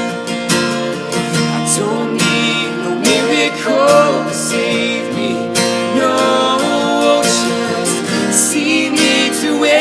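Instrumental break in an acoustic folk song: strummed acoustic guitar under a melody line that slides and bends in pitch.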